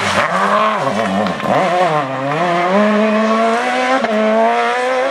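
Rally car engine revving hard. Its pitch drops sharply and climbs again several times in the first two seconds or so, as it lifts off and changes gear, then holds a steady high note through the rest.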